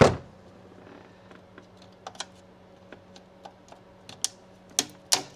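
Sharp plastic clicks and snaps as a zip-tied plastic clip is worked loose by hand: one loud click at the start, then a dozen or so scattered lighter clicks, the sharpest near the end. A faint steady hum sits underneath.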